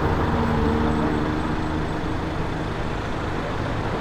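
Aston Martin sports car's engine running at low revs, a steady low engine note that eases slightly about halfway through.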